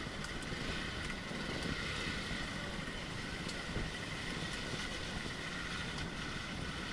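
Motorcycle engine running steadily on an off-road track, with wind rumbling on the microphone and a steady high buzz over it.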